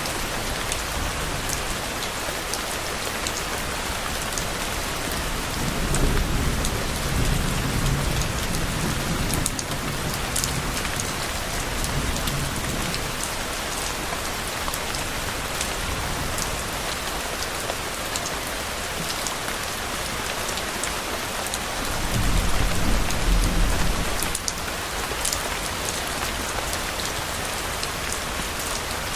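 Steady rain falling on a surface with scattered drop ticks, and low thunder rumbling twice: a long roll about a fifth of the way in and a shorter, louder one about three quarters of the way through.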